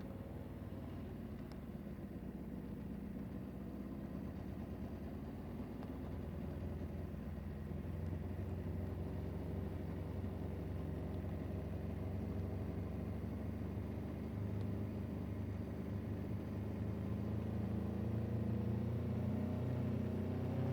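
Vehicle engine running steadily with a low hum, slowly getting louder through the stretch and beginning to rise in pitch near the end as it picks up revs.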